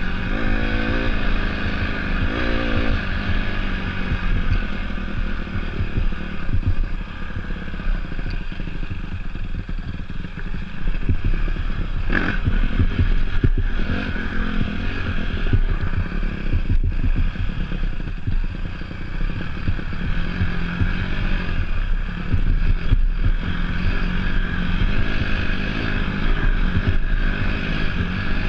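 Dirt bike engine running as the bike is ridden off-road, with the revs climbing in the first few seconds. Occasional sharp knocks and clatter are heard over it.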